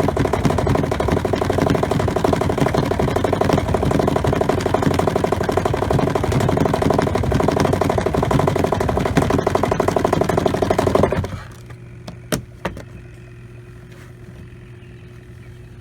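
Portable camp washing machine's spin basket running with a loud, steady rattling hum, then cutting off abruptly about eleven seconds in, followed by two light clicks.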